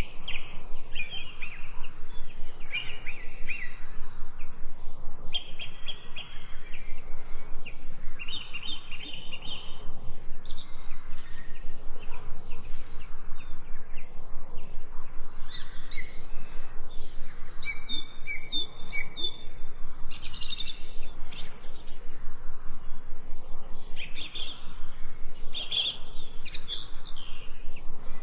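Forest songbirds singing and chirping, with short high trills and chirp phrases coming every second or two and overlapping one another.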